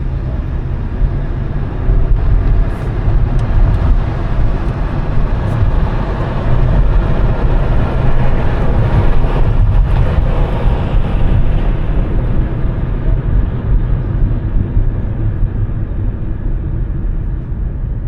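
Steady low rumble of road traffic, swelling louder about halfway through as a vehicle's noise grows and then eases.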